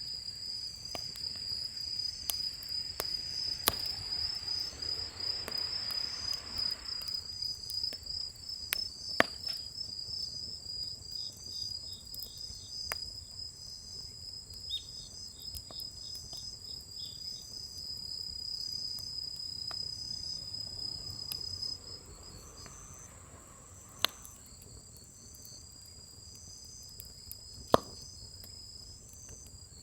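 Insects trilling steadily in a high, pulsing chorus that fades out about two-thirds of the way through, with a few sharp pops from firewood burning in a fire pit, the loudest near the end.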